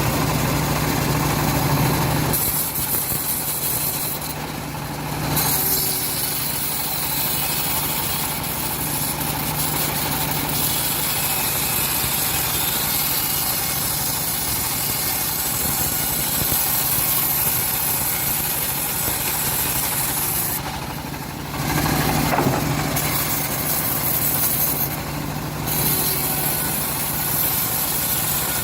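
Engine-driven homemade bandsaw mill running steadily while sawing a teak log. Its sound shifts about two seconds in and again around twenty-one seconds.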